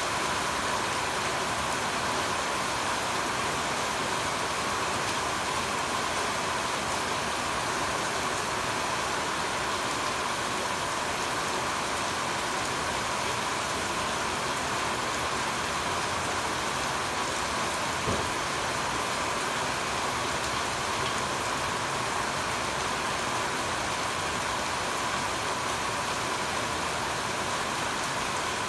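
Steady rain falling, an even hiss, with one brief knock about two-thirds of the way through.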